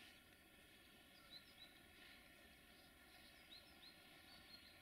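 Near silence with a few faint, short bird chirps.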